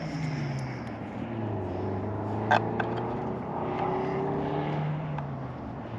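A distant engine drones with a pitch that slowly rises and falls, like a vehicle or aircraft passing. A single sharp click sounds about two and a half seconds in.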